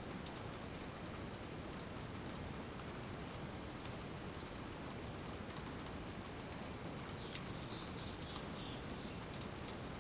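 Steady rainy-season rain falling, with individual drops clicking sharply now and then. About seven seconds in, a bird gives a short run of high chirps over the rain.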